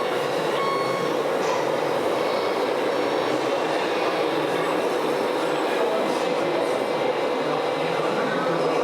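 Steady mechanical running noise of RC model trucks and machines driving, with no clear breaks.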